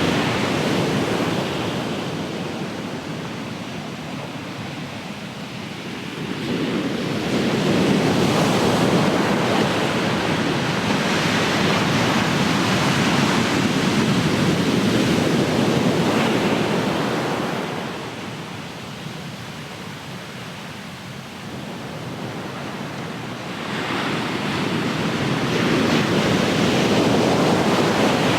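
Ocean surf breaking and washing on the shore, rising and falling in long swells: a loud wash builds about six seconds in, eases off past the middle, and builds again near the end.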